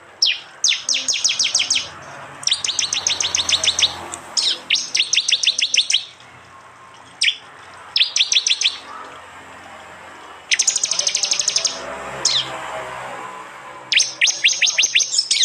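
Prenjak (prinia) giving its rapid-fire 'tembakan' call: about seven bursts of fast, sharp, evenly repeated high notes, each about a second long, with short pauses and a couple of single notes between them.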